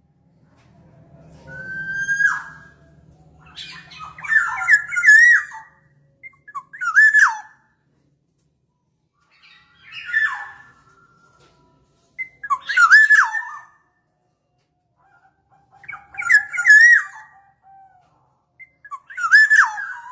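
Black-naped oriole (kepondang) calling: short fluty whistled phrases that glide and loop in pitch, with a harsh edge, repeated about every two to three seconds, as used to lure the birds.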